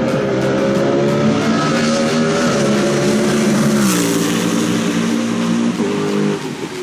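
Race car engine running hard at high revs, its pitch falling about four seconds in and changing again near the end, as with a gear change or a lift off the throttle.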